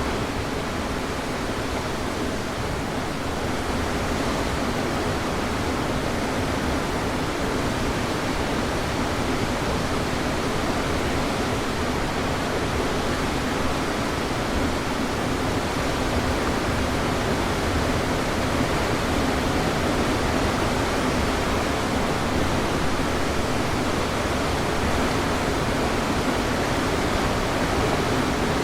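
Waterfall: river water falling and crashing in a steady, unbroken rush.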